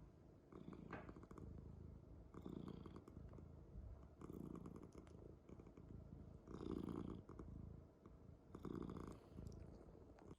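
A domestic cat purring close up, the purr swelling and easing about every two seconds with each breath in and out.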